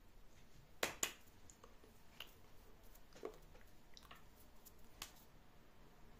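A few sharp clicks and light knocks in a small room: two loud ones close together about a second in, then fainter single ones spaced out over the next few seconds.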